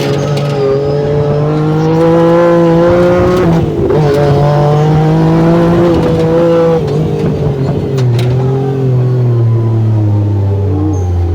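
Yamaha 1000R side-by-side's engine pulling under load. Its pitch climbs steadily, drops sharply twice at gear changes (about three and a half and seven seconds in), then sinks lower and falls away toward the end as the machine slows.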